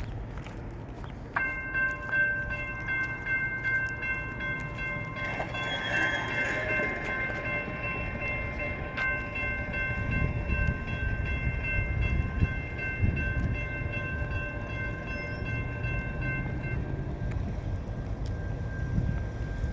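A CSX freight locomotive's air horn sounding one long steady chord for about fifteen seconds over the low rumble of the train, starting about a second and a half in.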